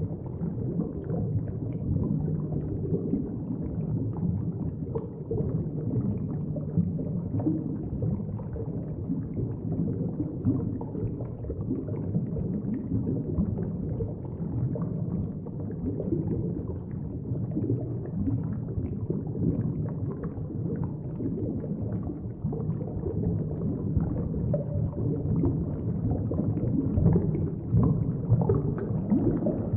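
Underwater ambience: a steady, muffled low rush of water, as heard below the surface, with faint crackles.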